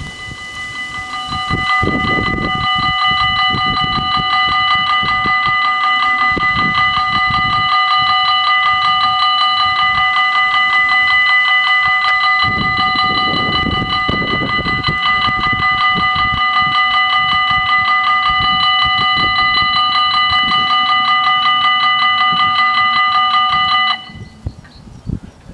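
Belgian level crossing's electronic warning bells ringing, a rapid pulsing ring with several clear pitches, the signal that a train is approaching. The ringing starts about a second in and cuts off suddenly near the end.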